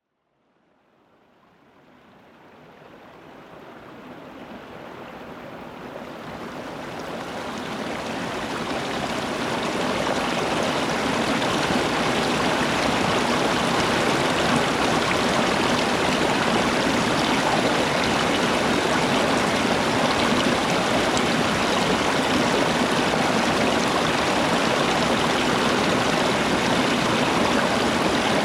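Running water of a stream, a steady rushing that fades in gradually from silence over the first ten seconds and then holds level.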